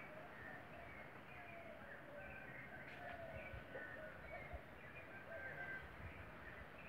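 Faint chorus of several birds calling, with many short overlapping chirps and calls.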